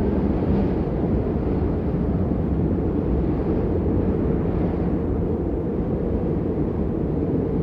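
Steady rain as a deep, even rush with no separate drops standing out, swelling and easing slightly now and then.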